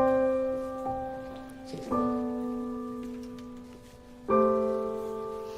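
Slow background piano music: three chords struck about two seconds apart, each left to ring and fade.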